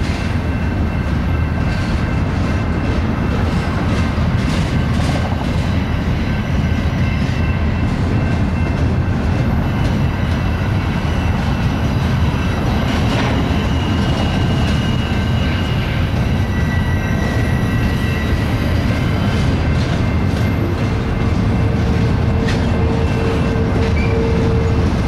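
Double-stack intermodal train's well cars rolling past in a steady, loud rumble, with wheels clicking over rail joints. Faint high wheel squeals run through it, and a lower squeal tone sounds for a few seconds near the end.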